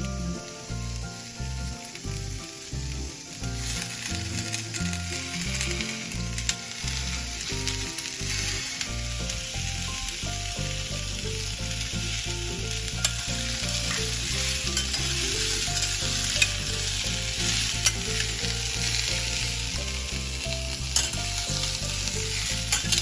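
Chopped vegetables and corn sizzling as they fry in a little oil in a pressure cooker, stirred now and then with a few sharp clicks of the utensil against the pot; the sizzle gets louder a few seconds in. Background music plays underneath.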